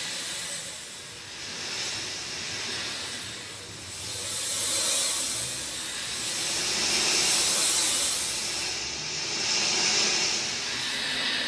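Rain falling: a dense hiss that swells and eases every two to three seconds.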